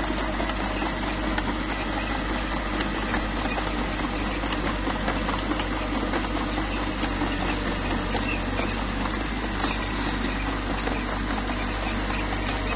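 Small bulldozer's diesel engine running steadily, with a scatter of small clicks and rattles from its tracks and the rock being pushed.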